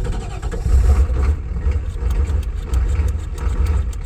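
Ford 6.9 IDI V8 diesel running just after a cold start, a pulsing low rumble with a regular sharp diesel clatter. It runs rough and "a little angry" from the cold, at about 33 degrees.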